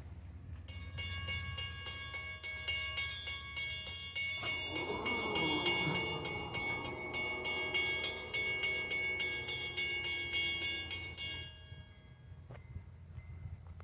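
Railroad crossing bell ringing rapidly and evenly. About four seconds in, a passing train adds a lower sound that slides down in pitch. The bell stops about eleven seconds in.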